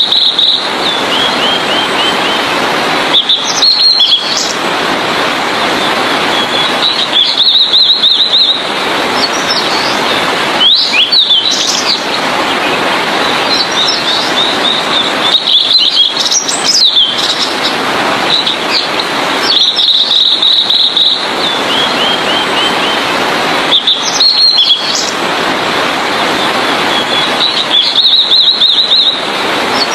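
Blue-and-white flycatcher singing: short high phrases of clear notes and rapid trills, repeated every three to four seconds over a steady rushing hiss.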